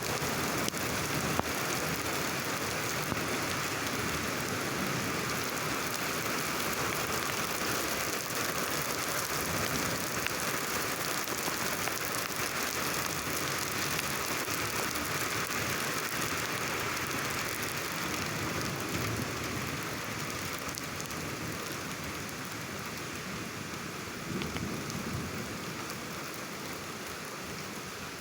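Thunderstorm downpour: heavy rain pouring steadily onto surfaces, easing slightly toward the end.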